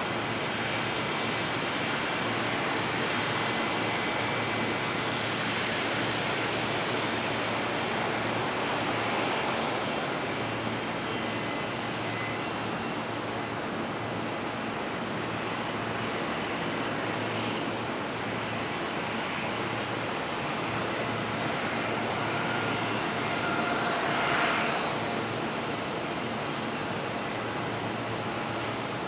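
Steady jet engine noise from a Boeing 737-800's CFM56 engines, with thin high whining tones over a broad rush and a slight swell near the end.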